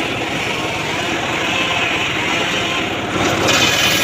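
Homemade engine-driven circular saw running steadily, cutting mahogany, growing louder and harsher about three seconds in.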